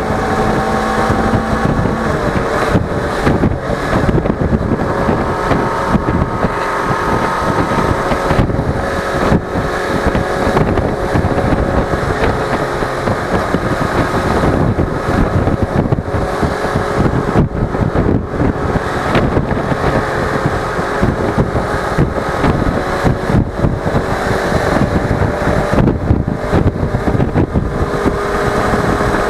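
Suzuki V-Strom 250 parallel-twin engine running steadily while the motorcycle is ridden, with heavy wind noise on the microphone.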